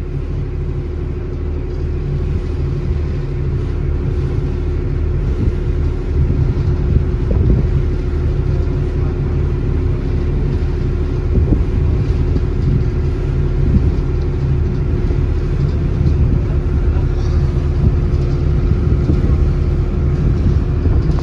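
Small passenger ferry's engine running steadily under way, a constant low drone with a steady hum over it.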